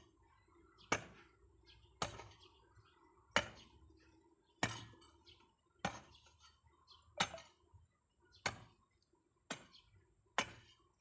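A steady series of sharp chopping strikes from a hand tool, about one a second, nine in all.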